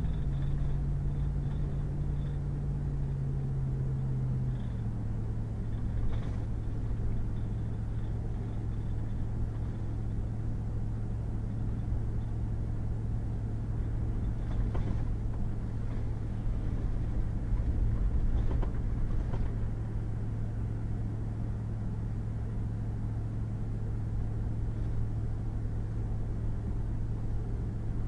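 Pickup truck driving on a wet, muddy gravel road: the engine runs at a steady hum over a constant low rumble from the road, and its note drops a step about four seconds in. A few faint knocks come through partway along.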